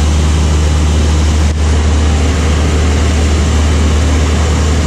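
Steady loud drone of a light propeller aircraft's engine heard from inside the cabin, a strong low hum under a wide rushing noise.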